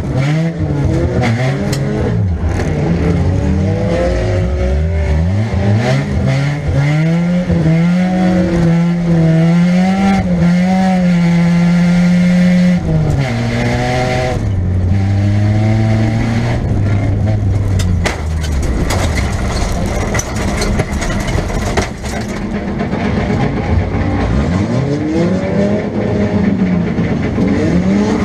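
A 1998 Nissan Pulsar's 1.8-litre four-cylinder engine heard from inside the car, revving up and down again and again as it is driven hard through the gears. The revs are held high for a few seconds before midway, then drop and climb again near the end. Sharp knocks and clatter come throughout.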